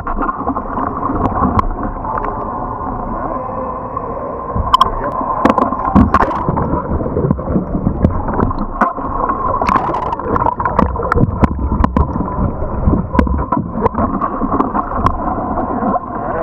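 Muffled water churning and gurgling close to the microphone, with frequent sharp knocks and splashes, as a kayak is rolled and moved through the water.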